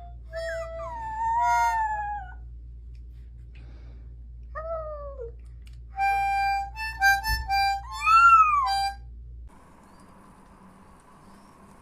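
Cat meowing in long cries that slide up and down, mixed with a run of short steady held notes like a harmonica's. A low hum underneath stops near the end.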